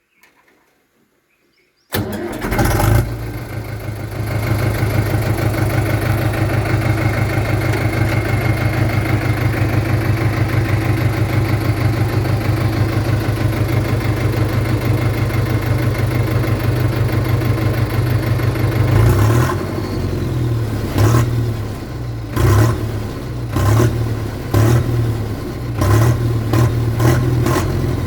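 HMT 6522 DI tractor's diesel engine starting about two seconds in, then running steadily with an even fast chugging beat. Near the end it is revved in a series of short throttle blips.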